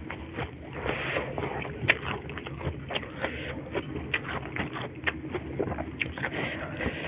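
Close-miked chewing and wet mouth sounds, with many short scattered smacks and clicks, as a mouthful of food is eaten; fingers scooping rice from a plastic tray add soft scrapes.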